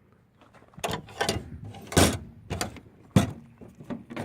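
Metal access doors and latches on a military diesel generator's housing being handled, a run of knocks and clanks, the loudest about two seconds in and another sharp one about a second later.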